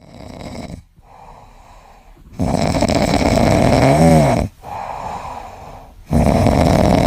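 A pet snoring loudly in long, noisy breaths, with quieter breaths between the loud snores and a brief whistling rise and fall at the end of one snore.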